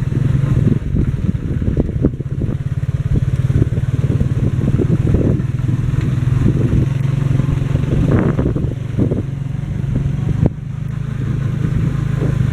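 Motorcycle engine of a Philippine tricycle running steadily as it drives along, a continuous low drone with frequent rattles and knocks from the ride over it.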